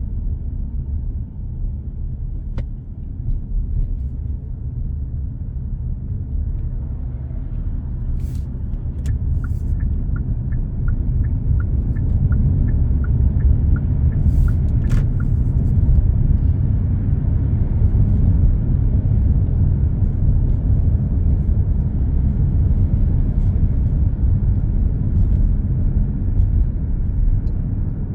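Car travelling on an expressway: a steady low rumble of road and engine noise that grows louder about twelve seconds in. In the middle, a faint regular ticking about twice a second runs for a few seconds.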